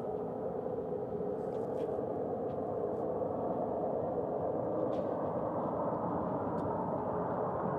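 Steady rumble of jet aircraft engines heard from across the airfield, holding at an even level after a louder pass fades away just before.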